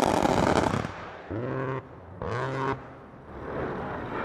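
A loud blast in combat that fades away over about a second, followed by two short yelled shouts from a man, about a second apart.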